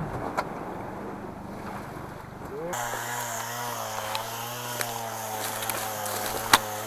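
Boat motor running steadily, with wind on the microphone. About three seconds in, the sound changes abruptly to a steadier low hum with a higher, slightly wavering engine whine above it.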